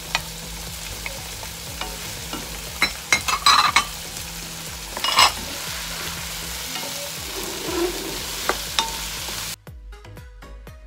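Shrimp, chicken gizzards and onions sizzling in a granite-coated wok while a wooden spatula stirs and scrapes, with a few sharp scraping clatters a few seconds in. Near the end the sizzle cuts off suddenly and background music with a drum beat takes over.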